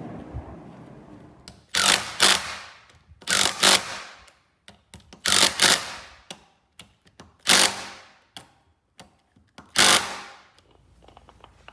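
Power tool run in short bursts, about six of them roughly two seconds apart, some in quick pairs, with lighter clicks between.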